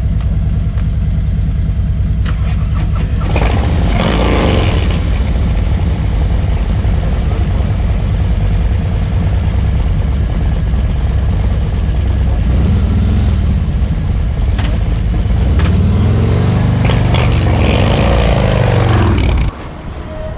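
Harley-Davidson V-twin motorcycle engine running, revved up and back down about four seconds in and again near the end, then cutting off suddenly.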